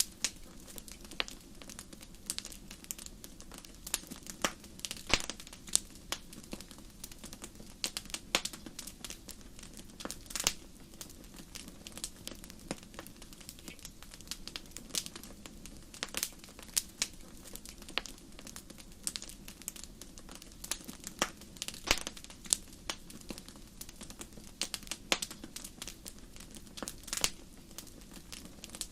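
Wood fire crackling in a fireplace: irregular sharp pops and snaps, several a second at times, over a steady low rush of burning.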